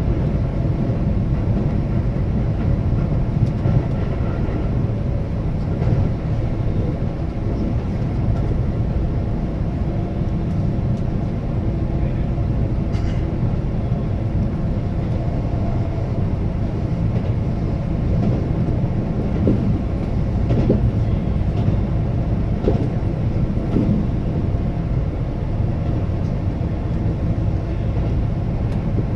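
Keihan Railway limited express electric train running along the line: a steady rumble of wheels on rail with a faint hum from the motors, and a few faint clicks from the track.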